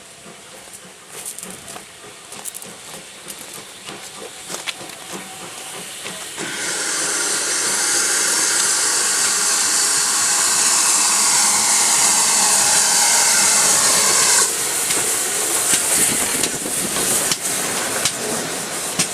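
Steam locomotive venting steam: a loud, steady hiss starts suddenly about six seconds in and cuts off sharply about eight seconds later, with quieter hissing and scattered clicks around it.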